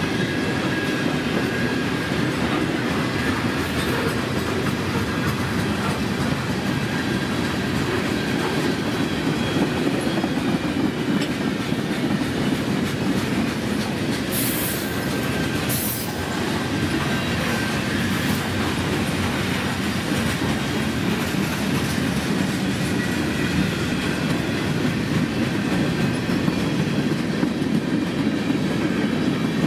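Freight cars of a passing mixed freight train rolling by, with a steady rumble and clatter of steel wheels on the rails.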